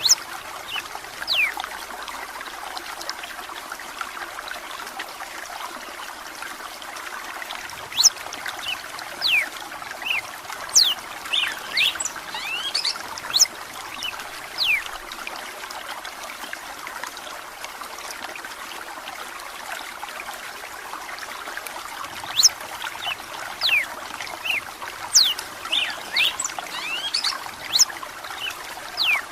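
Red-cowled cardinal (galo de campina) singing in runs of short, sharp downward-sliding whistled notes, over the steady rush of running water. The singing comes in two spells with a pause of several seconds between them.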